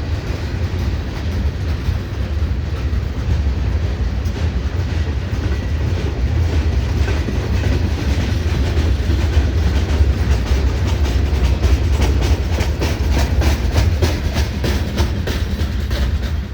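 Freight train cars rolling past at close range, a steady deep rumble with the wheels clicking rhythmically over rail joints, the clicks coming more often in the second half.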